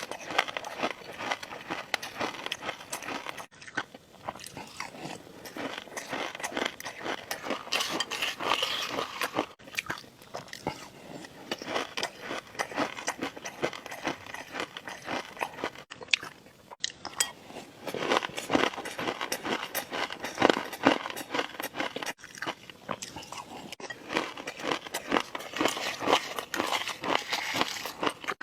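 Close-miked ASMR eating: a person biting into and chewing crunchy food, a dense run of crisp crunches and wet mouth sounds, broken by a few short sudden gaps.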